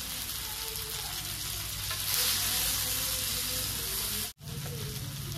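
Slices of steamed colocasia-leaf roll shallow-frying in hot oil in a pan, with a steady sizzle. The sound cuts out abruptly for a moment about four seconds in, then the sizzle resumes.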